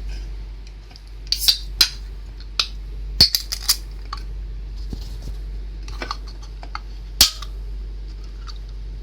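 Aluminium soda cans clinking and knocking against each other and the shelf as they are handled in a homemade soda fridge, in a dozen or so irregular sharp knocks over a steady low hum.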